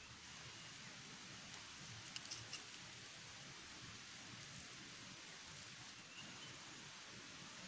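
Rain falling steadily in forest, heard as a faint even hiss, with a few sharp ticks about two seconds in and a brief high chirp near the end.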